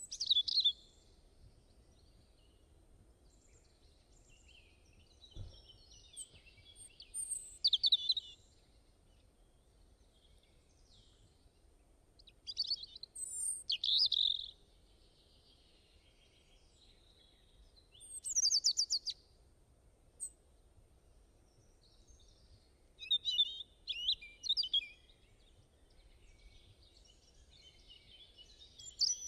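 Songbirds singing in short, quick chirping phrases that come about every five seconds, with quiet pauses between them.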